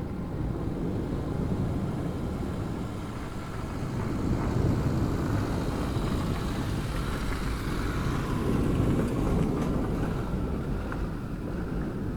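Deep, continuous rumbling roar of the erupting La Palma volcano, swelling louder about four seconds in and again around eight to nine seconds.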